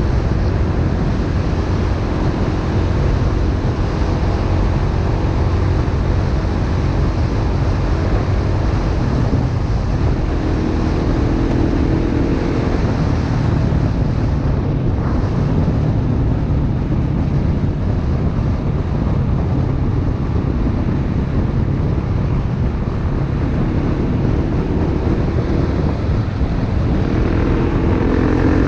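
Single-cylinder dirt bike engine running under way, its note rising and falling with the throttle, with heavy wind noise buffeting the microphone.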